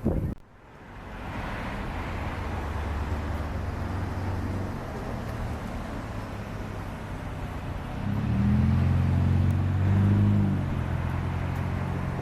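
A motor vehicle's engine running over a steady rush of road and wind noise. About eight seconds in, the engine note gets louder and rises a little, as if accelerating, then settles again about two seconds later.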